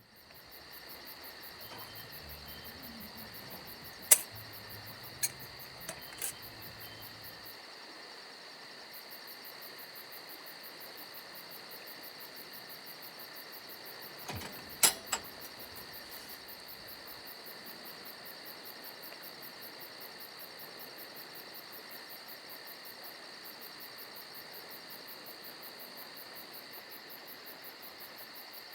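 Insects trilling steadily, a high-pitched, fast-pulsing chorus. A few sharp clicks or knocks come around four to six seconds in and again about midway; the first is the loudest sound.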